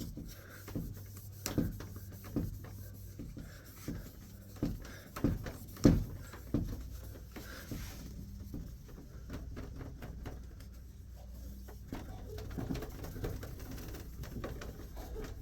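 Heavy breathing through the nose, with scattered light knocks and handling noises, most of them in the first half.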